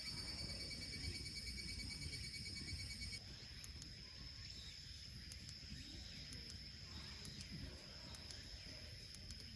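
Insects trilling: one steady high-pitched trill throughout, and a second pulsing insect call that stops about three seconds in, over a low outdoor rumble.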